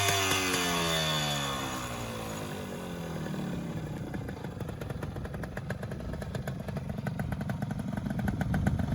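Yamaha TY125's two-stroke single-cylinder engine, running after repair of an engine fault. Its revs fall away over the first few seconds, then it settles into an even, steadily firing idle.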